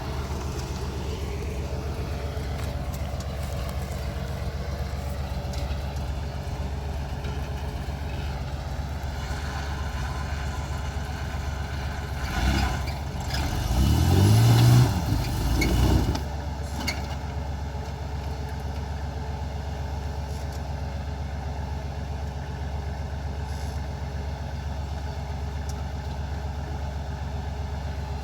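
Car engine running steadily. About halfway through, a louder engine sound swells for a few seconds, rising in pitch, then falls back to the steady running.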